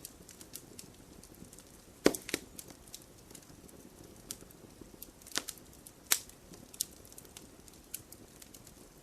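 Wood campfire crackling over a soft steady hiss of flame. Scattered sharp pops and snaps sound at irregular intervals, the loudest about two seconds in and twice more past the middle.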